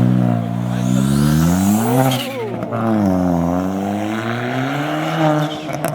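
A car engine revving: its pitch climbs to a peak about two seconds in, drops, climbs again more gently and cuts off near the end.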